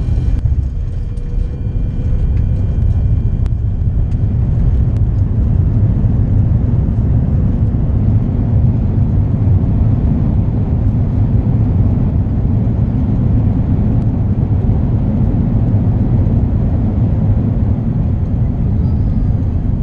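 Lufthansa Airbus A330-300 airliner heard from inside the cabin during landing: a steady low rumble of engines and airframe, growing slightly louder about two seconds in and then holding.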